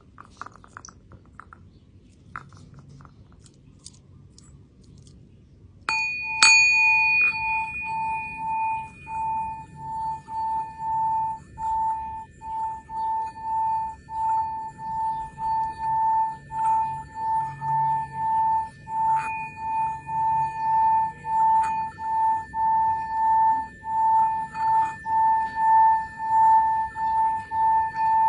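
Singing bowl struck about six seconds in, then rubbed around the rim so it keeps ringing on one steady tone with higher overtones, the sound swelling and fading in a regular pulse. A few faint clicks of handling come before the strike.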